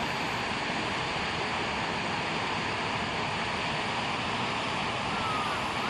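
Steady rushing of river water over rapids and a waterfall, an even roar with no break.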